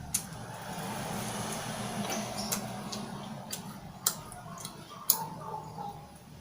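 Several sharp clicks of tableware during eating, over a steady background hum and a swell of outdoor noise in the first three seconds.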